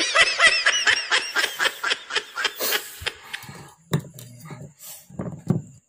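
A person giggling: a fast run of high-pitched laughs through the first second and a half, fading into a few short, lower voice sounds and light clicks.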